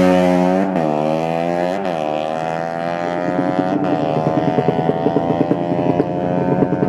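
Drag-racing motorcycle engine at high revs, its pitch dropping and climbing back three times as it shifts up through the gears, then holding a steady high note with a rough crackle.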